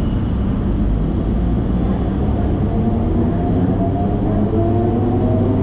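Electric suburban train running, heard from inside the carriage: a steady low rumble of wheels on rails. A faint whine rises slowly in pitch through the second half.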